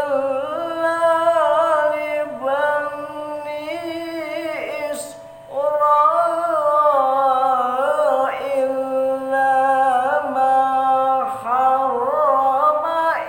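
A single voice reciting the Quran in a melodic, drawn-out style, holding long ornamented notes. It breaks briefly for breath about five seconds in. A faint steady tone runs beneath the voice.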